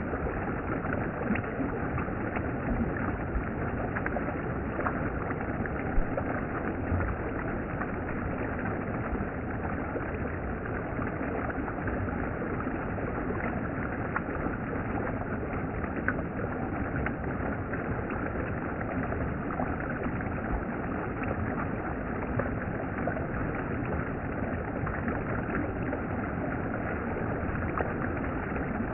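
Mountain stream water rushing steadily, with a few faint knocks or splashes.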